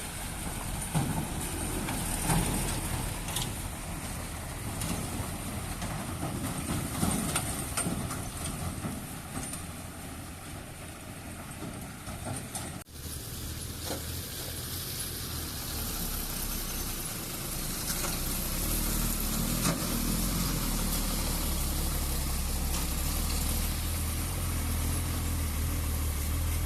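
Heavy lorry engine running, with scattered knocks and rattles over it; after a cut about halfway through, a steadier engine sound that grows louder in the second half.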